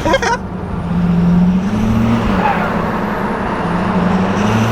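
Straight-piped Ford F250 diesel engine running as the truck drives, a steady low drone heard from inside the cab that shifts a little in pitch now and then. A short sharp noise right at the start.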